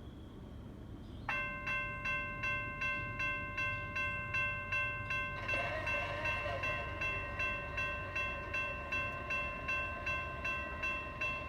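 Railroad grade-crossing bell starting about a second in and ringing steadily at about three strikes a second, signalling an approaching train.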